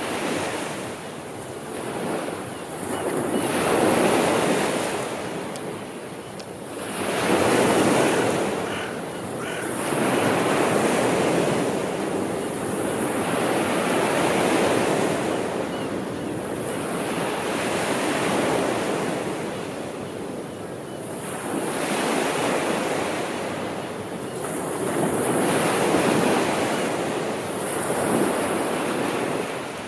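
Sea waves breaking and washing up the shore, a wash of surf that swells and ebbs every few seconds, with wind buffeting the microphone.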